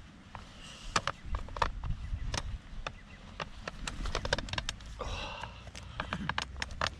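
Aluminium poles of a snap-together camping table clicking and knocking as they are twisted and slotted into the frame, in many short irregular taps, with brief scraping about a second in and again about five seconds in, over a low rumble.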